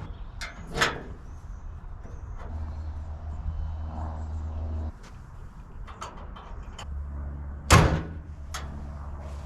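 Scattered clicks and knocks of hand work on the body of a 1956 Willys wagon, with a steady low hum for a couple of seconds in the middle. Near the end comes one loud slam of a panel or door being shut.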